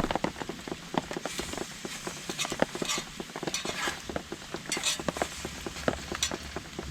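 Rain drops pattering irregularly on a nylon tarp, with a few brief scraping sounds of something being handled close by.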